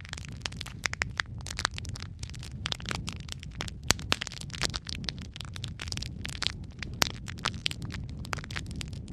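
Wood logs burning in a fireplace: constant irregular crackling and popping over a low steady rumble of flames, with a couple of sharper pops, one just before the four-second mark and one about seven seconds in.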